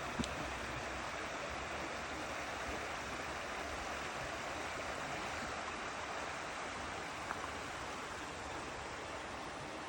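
Mountain stream rushing over rocks: a steady rush of flowing water, with a faint click or two.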